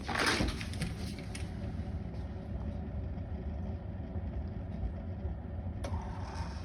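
Keurig single-serve coffee maker running as it warms up, a steady low hum. About six seconds in a louder hiss with a steady tone starts up.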